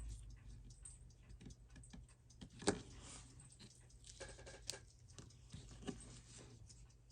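Faint, irregular small clicks and taps of metal tweezers and a screwdriver on a Seiko 6R15 watch movement during disassembly, with one sharper click about two and a half seconds in.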